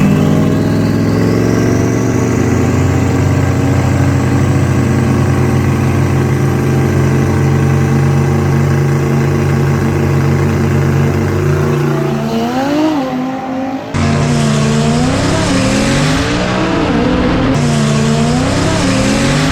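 Drag car engine running hard: the pitch climbs at the start and then holds steady at high revs for about twelve seconds. After a break the engine revs up and down repeatedly.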